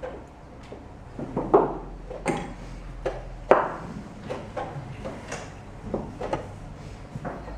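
Chess pieces being set down on the board and a chess clock being pressed in a rapid game: a string of irregular wooden clicks and knocks, the loudest about a second and a half in and again about three and a half seconds in.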